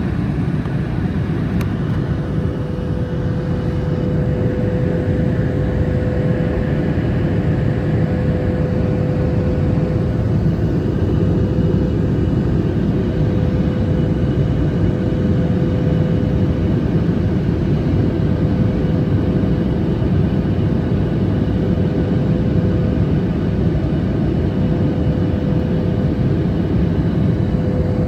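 Boeing 737 MAX 8 cabin noise in flight: the CFM LEAP-1B engines running with the rush of air past the fuselage, a steady deep noise with a faint steady hum, growing slightly louder a few seconds in.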